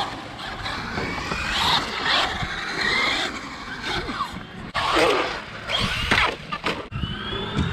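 Radio-controlled cars' electric motors whining, the pitch rising and falling as they accelerate and slow, over the rush of their tyres on concrete. The sound breaks off sharply a few times.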